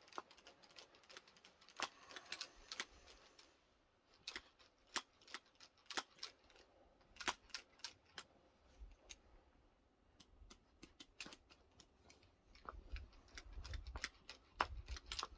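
Faint, irregular clicks and light clacks, one or two a second, from a pistol-grip grease gun being handled while it fails to prime. A low rumble builds under the clicks near the end.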